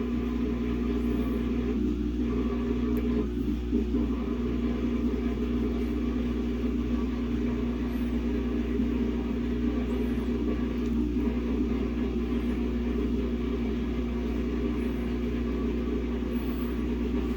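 Samsung WA50R5200AW top-load washing machine running with a steady low hum and rumble, plus a few faint clicks. Its load is a single pair of pants, very imbalanced, and the machine is not visibly doing anything.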